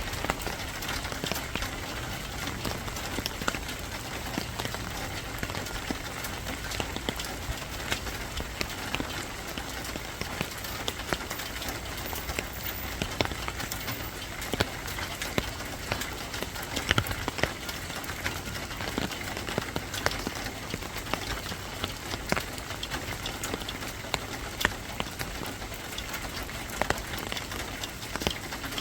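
Steady rain falling, with many single drops ticking sharply at irregular moments.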